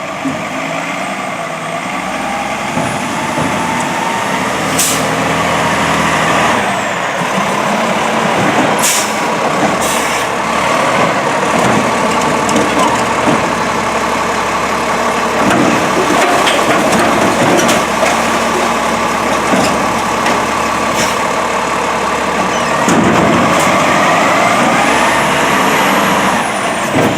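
Garbage truck working at the curb: the engine runs with a steady whine from the hydraulics, broken by several sharp bangs or hisses. A high squeal rises and falls near the start and again near the end.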